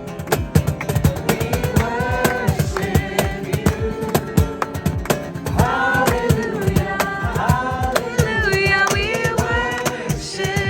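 A worship song with rhythmic strummed guitar and percussion, voices singing over it from about two seconds in.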